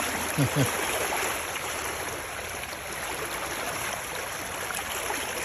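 Creek water rushing over rocks through a stretch of rough rapids, a steady rushing noise. About half a second in, a short vocal sound from a man cuts in twice, briefly louder than the water.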